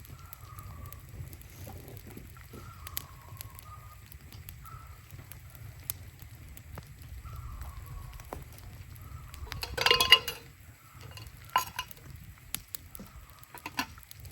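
Metal cookware clanking: one loud clatter about ten seconds in, then two lighter clinks. Faint short calls, each falling slightly in pitch, repeat throughout over a steady low rumble.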